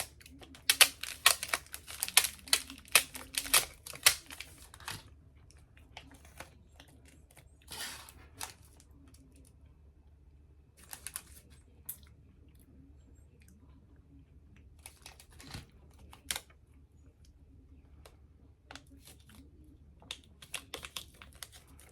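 Crisp crackling from a layered chocolate hazelnut wafer snack being bitten and chewed close to the microphone. It is dense for the first four seconds or so, then thins to scattered crunches.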